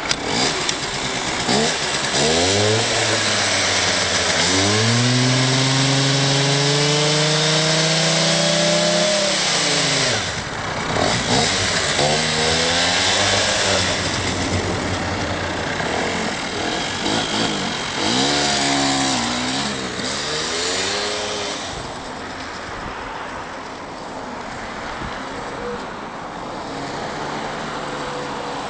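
Engine revved several times: a climb held high for about four seconds, dropping back about ten seconds in, then two shorter blips of the throttle before it settles to a steady idle. Wind noise on the microphone underneath.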